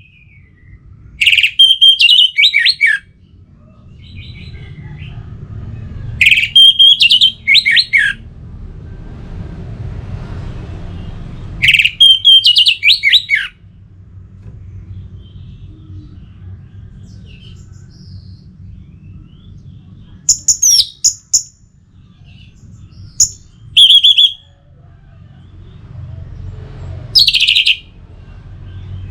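Orange-headed thrush singing: short, loud phrases of clear whistled notes, several falling in pitch, repeated every few seconds, about half a dozen phrases in all. Under the song runs a steady low rumble of background noise.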